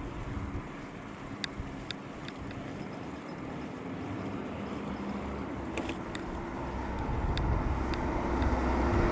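A car on the street, its engine hum and rumble getting louder toward the end as it approaches, over steady road noise with a few sharp clicks.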